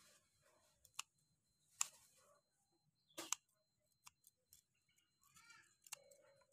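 Near silence broken by four sharp, isolated clicks or taps spread over a few seconds.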